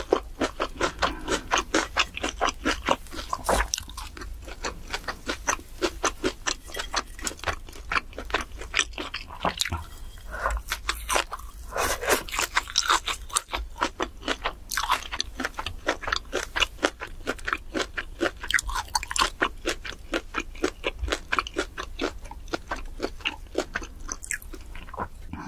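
Close-miked mouth sounds of chewing grilled pork belly and vegetables: rapid, regular wet smacks and crunches, several a second.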